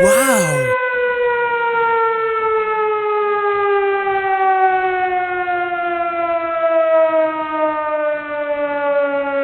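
A siren wailing on one long tone that slowly falls in pitch as it winds down. A short swooping sound comes right at the start.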